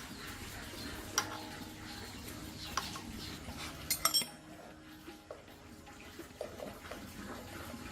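Scattered light metallic clinks and clicks over a low background hum, with a quick cluster of ringing clinks about four seconds in.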